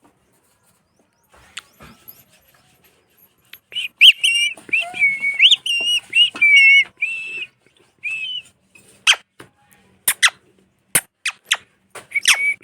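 Pet parrot calling: a run of high, warbling whistles starting about four seconds in, then a string of short, sharp calls near the end.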